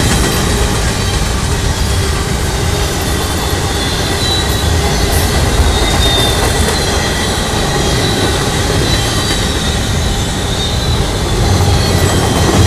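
Empty intermodal well cars of a freight train rolling past at speed: a steady rumble and rattle of steel wheels on rail, with faint high-pitched wheel squeal.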